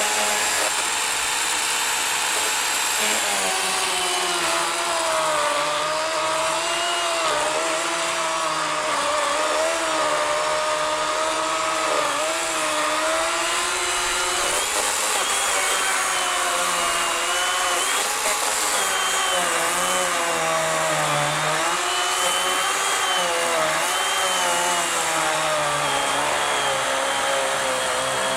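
40-volt Worx WG384 electric chainsaw with an 18-inch Oregon bar cutting through a thick log. The motor runs steadily, its pitch wavering and dipping now and then as the chain bogs in the wood.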